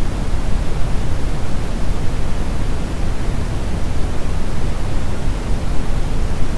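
Steady synthetic brown noise: an even, deep rushing hiss with most of its weight in the low end and no changes or events.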